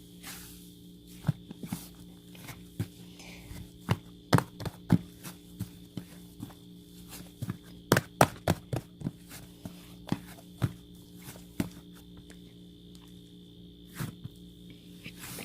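Irregular sharp taps and knocks, several a second in clusters and loudest about four and eight seconds in, over a steady electrical-sounding hum.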